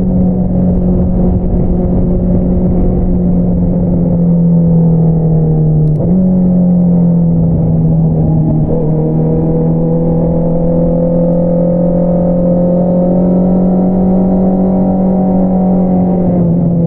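2022 Honda CBR650R's inline-four engine running through an Akrapovič single-outlet exhaust while riding at steady revs. The pitch sags slowly, jumps up abruptly about six seconds in, holds steady, then drops again near the end.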